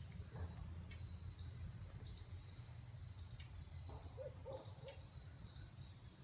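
Faint woodland ambience: a steady high insect drone and short high bird chirps every second or so. About four to five seconds in come three quick, low, hoot-like calls, over a low steady rumble.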